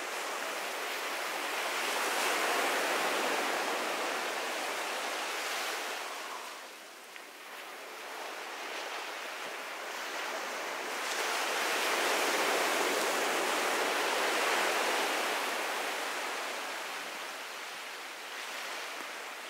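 Ocean surf breaking and washing onto a beach in two slow swells: one builds over the first couple of seconds and ebbs about seven seconds in, and a second builds around twelve seconds in and fades toward the end.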